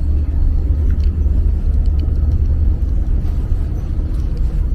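El Chepe passenger train running, heard on board as a loud, steady low rumble with a few faint ticks.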